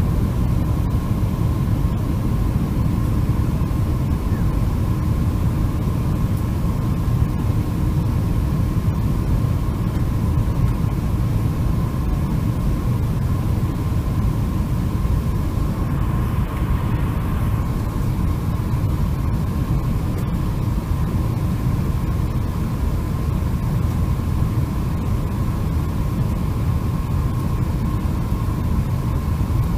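Boeing 747-400 in flight: a steady, unchanging low rumble of engines and airflow with a thin steady high tone.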